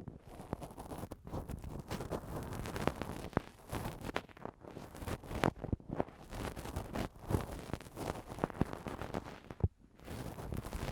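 Ear-cleaning tool scraping and rubbing against a microphone for ASMR: a continuous scratchy rustle with many short, sharp scrapes and taps, pausing briefly near the end.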